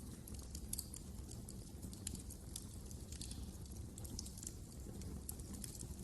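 Wood fire crackling: many small, irregular snaps and pops over a low, steady rumble.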